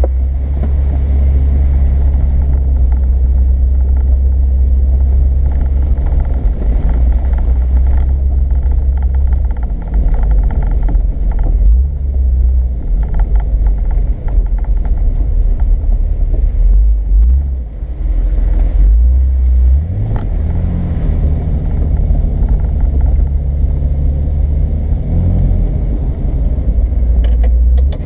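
Off-road 4x4 driving along a dirt trail: a steady, heavy low rumble of engine and tyres. About twenty seconds in the engine note rises as it speeds up, then holds.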